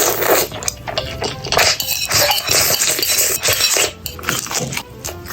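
Close-miked eating sounds: crunching bites and chewing, with utensils clicking against a dish.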